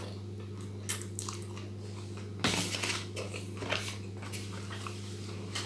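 Chewing a mouthful of raw arugula leaves, with scattered short crunches and clicks; the busiest stretch is about two and a half seconds in. A steady low electrical hum lies underneath.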